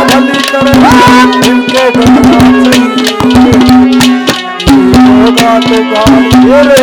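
Instrumental break in Haryanvi ragni folk music: a steady held note under a melody line, with quick hand-drum strokes throughout.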